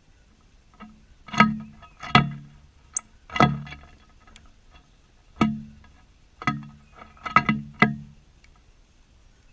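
A series of about seven sharp knocks or taps at irregular intervals, a couple of them in quick succession near the end, each with a short low ring.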